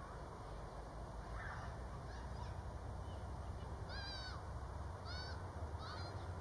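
A few short, arched honk-like bird calls, the clearest about four seconds in, over a steady low background rumble.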